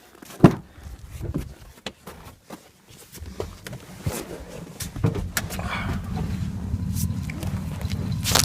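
Footsteps and clicks with a sharp knock about half a second in, then from about three seconds an engine running at a steady low idle that grows gradually louder.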